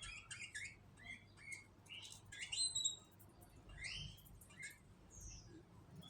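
Canaries chirping: short, scattered calls and quick rising and falling chirps, with the loudest cluster a little under three seconds in.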